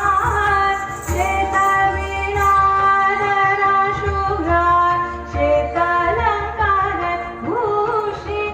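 A song with a woman singing a melody of long held, sliding notes over a steady bass beat, in the style of Indian film music.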